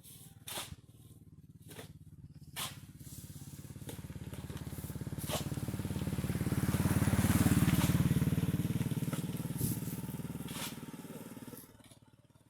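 A small engine, like a motorbike's, passing by: it grows louder over several seconds, is loudest about halfway through, then fades away. A few sharp knocks are heard in the first seconds.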